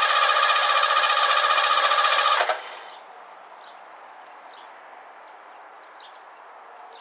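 1984 Ford Mustang GT350's engine being cranked over by the starter, loud and steady with a fast pulsing beat. It cuts off abruptly about two and a half seconds in without the engine catching and running: a no-start even with starting fluid sprayed in.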